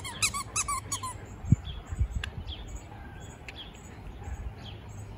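Birds chirping in the background: a quick run of high chirps in the first second, then fainter scattered chirps, with a couple of low thumps about two seconds in.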